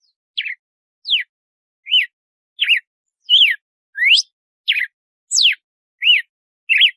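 Red-cowled cardinal (galo-de-campina) singing a phrase of its 'açoite' song: ten clear whistled notes, about three every two seconds, each a quick slur up or down in pitch.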